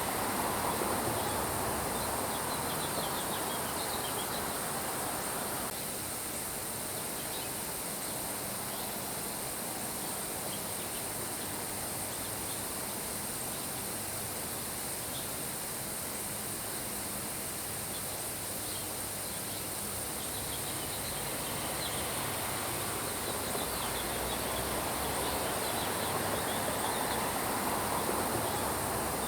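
Steady rain falling, with short high bird chirps scattered throughout. The rain eases slightly about six seconds in and grows louder again near the end.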